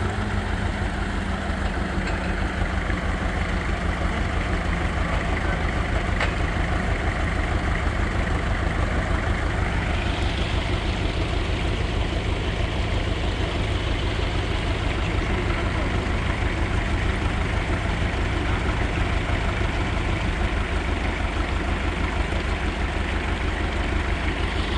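An engine running steadily at idle, with an even low throb.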